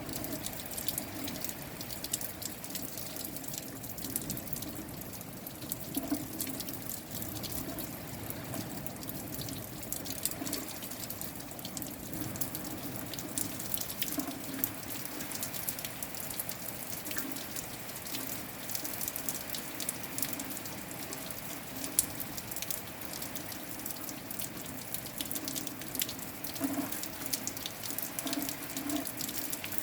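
Rain falling, with many drops striking close by as a dense run of sharp ticks over a steady wash, and one louder drop hit a little over two-thirds of the way through.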